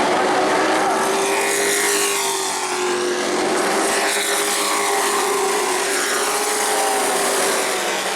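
Pro Truck race trucks running at speed on the track: a loud, steady engine note with slowly wavering pitch, and other trucks' engines rising and falling as they pass.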